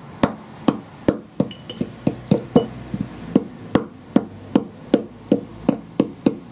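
Hammer tapping an oil seal into an MGA front wheel hub, about three sharp, evenly spaced metallic taps a second.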